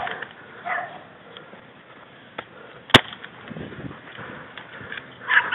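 A single sharp crack of a BB gun firing, about three seconds in, with a fainter click shortly before it.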